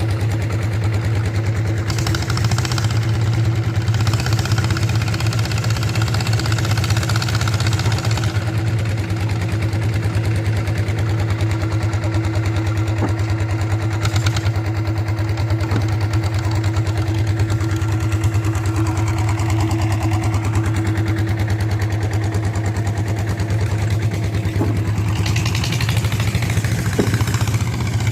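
Walk-behind tractor's single-cylinder diesel engine running steadily with a rapid, even firing beat.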